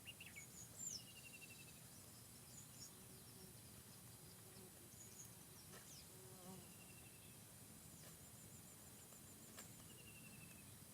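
Faint forest ambience: small birds give scattered high chirps and three short rapid trills over a steady low background hiss.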